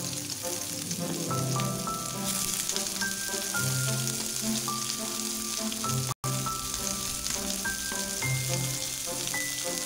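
Onion, garlic, lemongrass and Sichuan peppercorns sizzling in hot oil in a nonstick wok as the sliced ingredients are tipped in: a steady frying hiss. Gentle background music with held melody and bass notes plays over it, and the sound cuts out for an instant about six seconds in.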